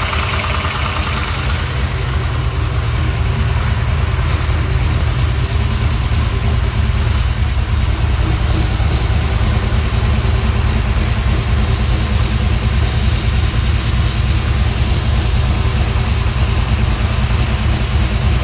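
Vehicle engine idling steadily with a leaking exhaust, a constant low rumble made of rapid even pulses.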